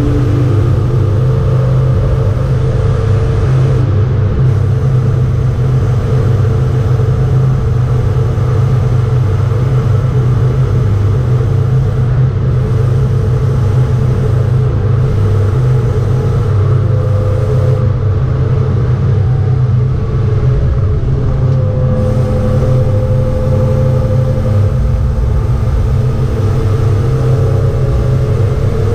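BMW 325 E36's straight-six engine running steadily under way at track speed, heard from inside the cabin, its low note holding nearly constant pitch.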